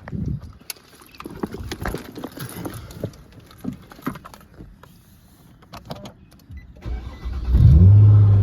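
Scattered clicks and knocks of handling inside a car, then, about seven and a half seconds in, the Nissan Altima's engine cranks and catches, settling into a steady idle.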